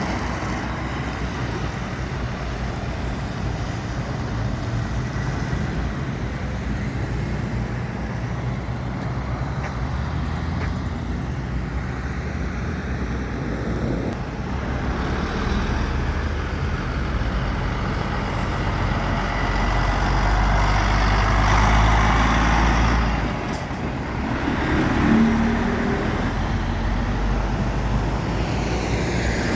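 Truck engine running in city traffic, a steady low rumble that grows louder about two-thirds of the way through and then drops off suddenly.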